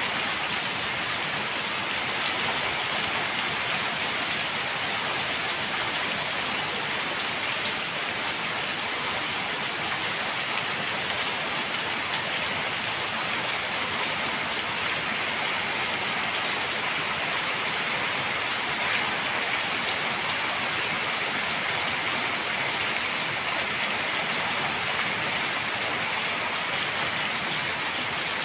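Heavy rain falling steadily on a corrugated sheet roof and pouring off its edge in streams.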